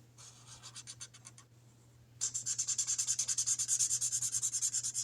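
Felt-tip marker scribbling on a paper chart, coloring in squares with quick back-and-forth strokes. The strokes are faint at first and grow louder and steady about two seconds in, at about five strokes a second.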